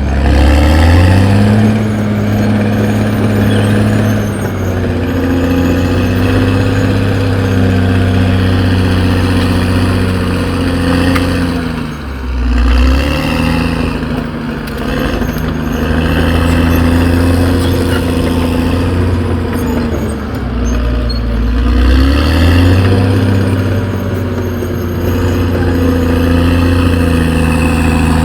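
Diesel engine of a Caterpillar D6R XL bulldozer running hard under working load. The revs climb about a second in, then dip twice and pick back up each time.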